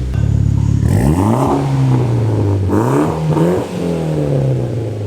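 Mitsubishi Evo X's turbocharged 2.0-litre four-cylinder engine, breathing through a catless downpipe, custom 3-inch mid pipe and ETS dual-muffler axle-back, revving up and dropping back twice.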